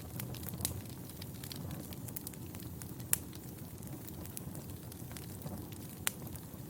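Wood fire burning in a fireplace: a steady low rumble of flames with irregular sharp pops and crackles, two louder snaps about three and six seconds in.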